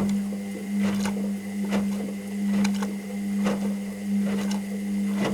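Washing machine running: a steady motor hum with a faint higher whine, and a knock or clunk from the turning drum roughly once a second.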